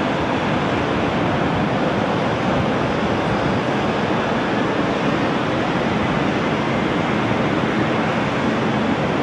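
Steady, loud roar of jet aircraft engines, an even rushing noise that neither swells nor fades.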